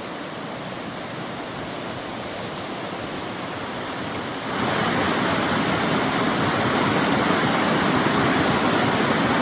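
Steady rush of a waterfall and cascading creek water, jumping suddenly louder about four and a half seconds in and holding there.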